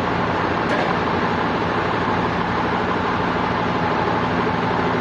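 Sawmill machinery running with a steady, even noise and a constant hum, and a single brief click about a second in.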